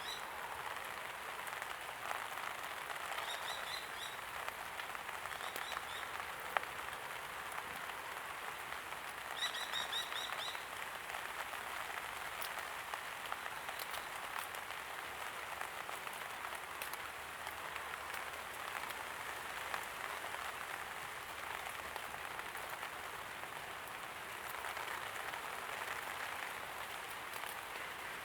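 Steady light rain falling, an even hiss with scattered drop ticks. A small bird chirps in short, quick series a few times: around three to four seconds in, again near six seconds, and about ten seconds in.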